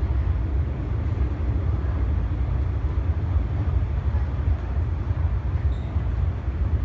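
MTR M-Train electric multiple unit running, a steady low rumble.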